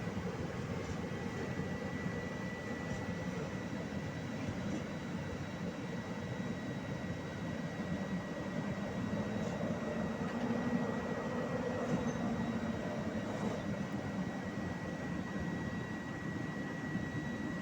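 Train running with a steady rumble and a constant high-pitched whine, swelling slightly about two-thirds of the way through.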